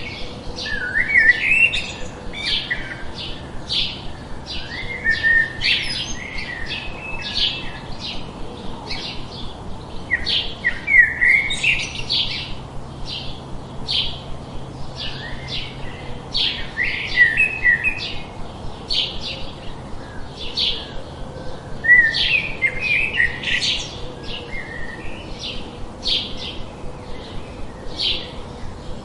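Songbirds chirping: a steady stream of short, high chirps, several a second, with a louder twittering phrase breaking in about every five seconds.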